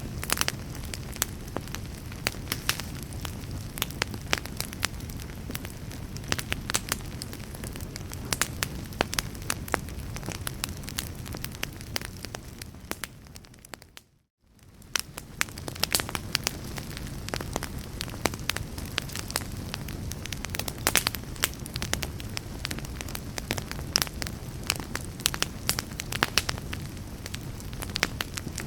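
Fire in a fireplace crackling, with dense irregular pops and snaps over a low rumble. About halfway through, the sound fades out to silence for a moment and then fades back in.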